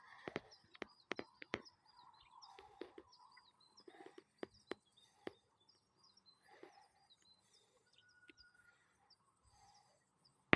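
A small songbird calling over and over in short, high, downward-sliding chirps, while twigs and forest litter crackle and snap underfoot with each step.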